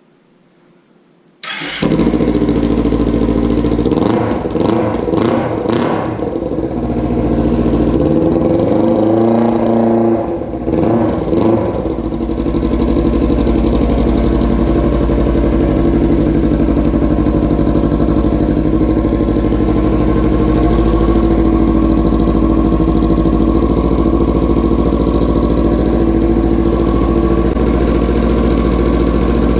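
Kawasaki Ninja 300's parallel-twin engine starting through a Toce slip-on exhaust, catching about a second and a half in. It is blipped a few times soon after, then settles to a steady idle.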